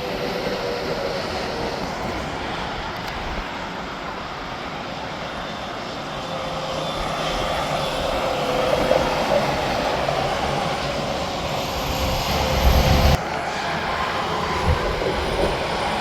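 Interstate highway traffic: a continuous rumble of passing trucks and tyre noise that swells towards the middle. The sound changes abruptly about thirteen seconds in.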